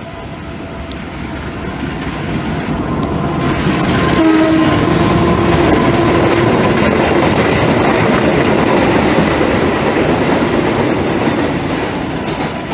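Diesel-electric locomotive hauling a passenger coach and ballast hopper wagons past at close range: engine and wheels on rail, growing louder over the first few seconds, holding, then easing off near the end. A brief horn-like tone sounds about four seconds in.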